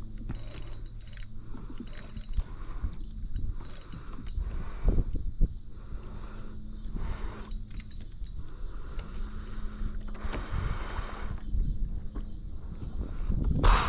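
A steady, high-pitched insect chorus, with a few low thumps and knocks, the loudest about five seconds in and near the end.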